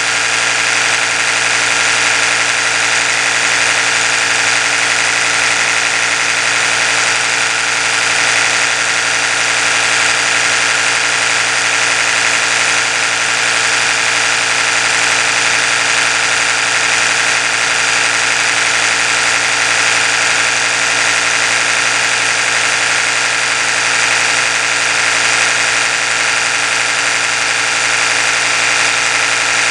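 Oral-B electric toothbrush running continuously: a steady, high motor buzz with many even overtones, holding the same pitch and level throughout.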